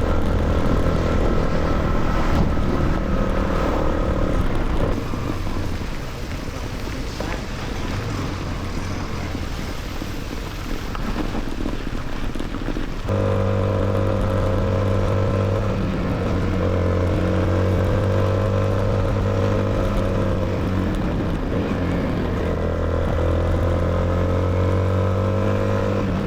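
Motorcycle engine running steadily while the bike is ridden along the road, with wind and road noise, and the pitch drifting a little with speed. For a stretch in the middle the engine tone drops back under a rushing noise, then it returns suddenly and strongly.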